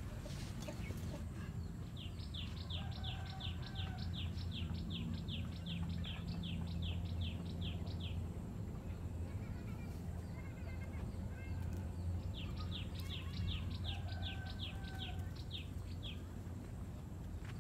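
A bird calling in two runs of rapid, high, downward-slurred notes, about three a second, each run lasting several seconds, over a steady low hum.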